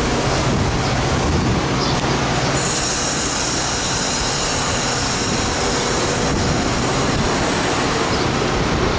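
Metra bilevel commuter passenger cars rolling slowly past close by as the train brakes to a stop, a steady rumble of wheels on rail with a thin high squeal setting in about two and a half seconds in.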